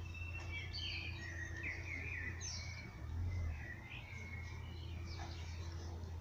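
Birds chirping and singing in quick, high, short notes, busiest in the first half, over a steady low rumble.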